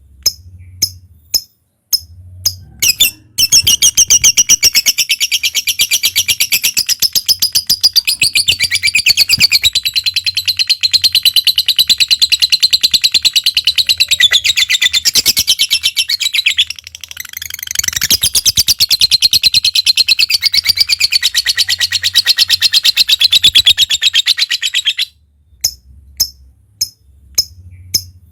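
Lovebird giving a few sharp single chirps, then breaking into a long, very rapid chattering trill of high chirps, the 'ngekek' song, which runs for about twenty seconds with a short falter partway through before it stops and single chirps resume near the end.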